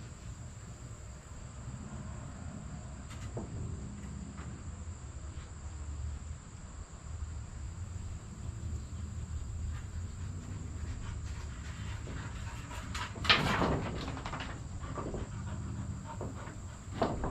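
Occasional knocks and clanks from hand work on a sawmill, the loudest a short clatter about thirteen seconds in and a couple more knocks near the end, over a low steady rumble.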